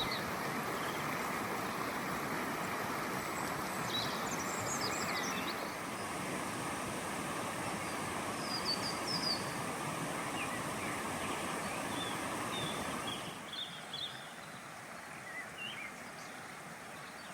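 Flowing water rushing steadily, with small birds chirping now and then over it. The water sound drops quieter about three-quarters of the way through.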